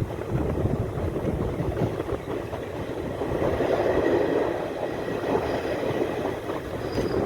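Indian Railways passenger train running on the track, a steady rumble of wheels and carriages that swells about halfway through.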